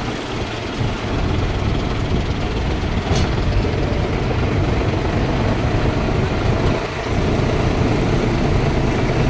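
Tractor engines running in a steady low rumble, with a brief click about three seconds in.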